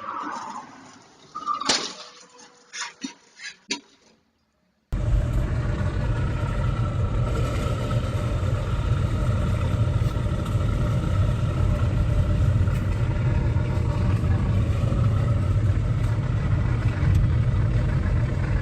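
A sharp knock followed by a quick run of clicks and clatter. After a brief dead gap, a car's engine and tyres give a steady low rumble, as heard through a dashcam while driving.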